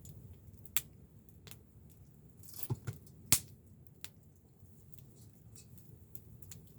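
Wood fire crackling: scattered sharp pops and snaps at irregular intervals, the loudest a little past three seconds in.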